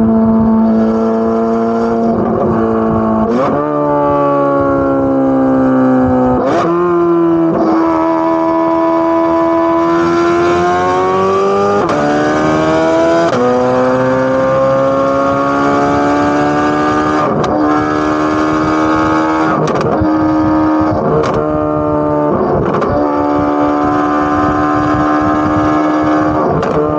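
Chevrolet Corvette C8 Z06's 5.5-litre flat-plane-crank V8 exhaust running under load. Its pitch holds or climbs slowly, then jumps sharply up or down at each of about ten quick gear changes, with a short crack at several of the shifts.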